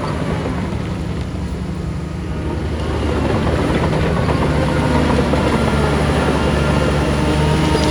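Heavy diesel engine of earthmoving machinery running under load, growing louder about three seconds in.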